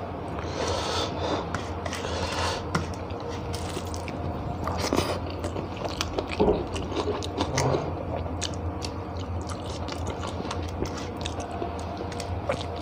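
Close-up chewing and lip-smacking of a mouthful of rice, with many short wet clicks, while fingers mix and scrape rice on a steel plate. A steady low hum runs underneath.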